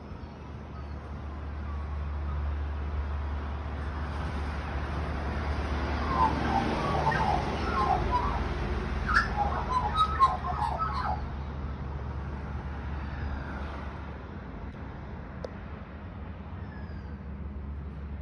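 Birds chirping and calling in a busy flurry about six to eleven seconds in, over a steady low hum and the swelling then fading noise of a passing vehicle.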